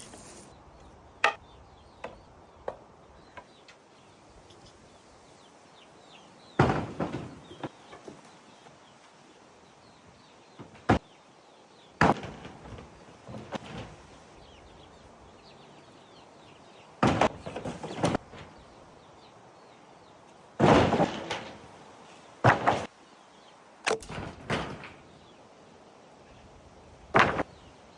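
A series of irregular knocks and clunks, about a dozen over the stretch, some single and sharp, others in short rattling clusters, over a faint steady background.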